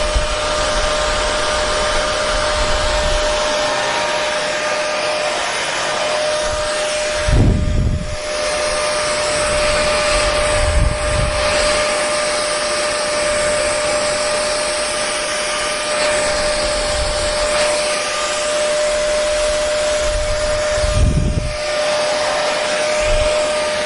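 Hair dryer running steadily: an even rushing blow of air with a constant motor whine. A brief low rumble breaks in about seven seconds in and again about twenty-one seconds in.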